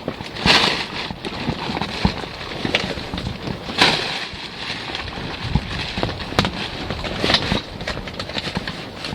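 Irregular knocks and clatters over a steady rushing noise, with a few louder, longer noisy bursts about half a second, four seconds and seven and a half seconds in.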